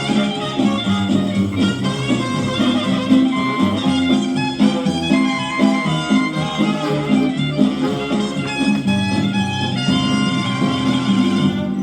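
Swing jazz band playing an instrumental passage with no singing, busy with many instruments at once.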